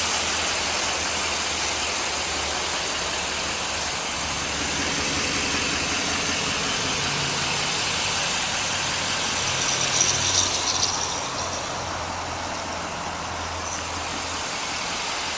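Duramax 6.6 L V8 turbo diesel engine of a Chevrolet Silverado 2500HD idling steadily.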